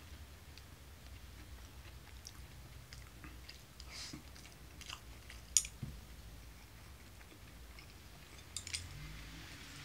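A person chewing food quietly, with a few light clicks of chopsticks and dishes: a sharper click about halfway through and a small clatter of clicks near the end.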